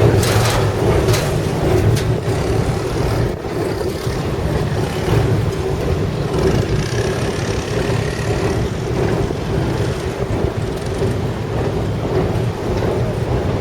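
Boat engine running with a steady low drone as the boat crosses the river, with a few short knocks in the first couple of seconds.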